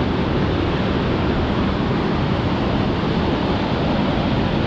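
Loud, steady rush of falling water from a waterfall, even and unbroken.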